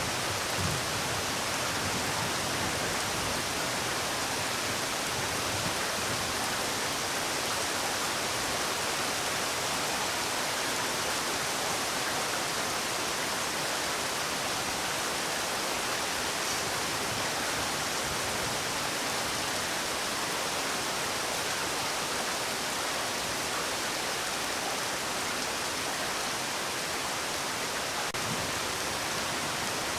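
Steady rain, an even hiss of falling drops without distinct single hits.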